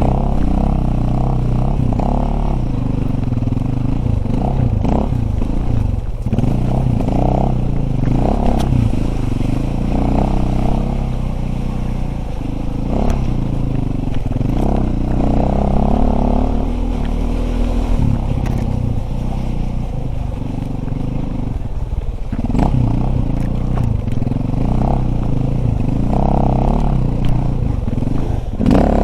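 Dirt bike engine running as it is ridden, its pitch rising and falling over and over with the throttle, with scattered knocks and clatter.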